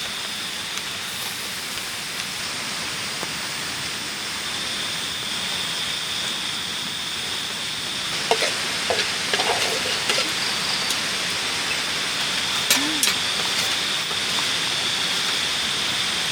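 Steady rushing water, a river or rain, with a steady high-pitched tone over it. A few faint short sounds come about halfway through.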